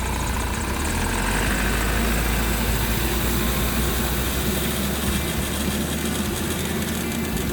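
A farm vehicle's engine running steadily with a low hum.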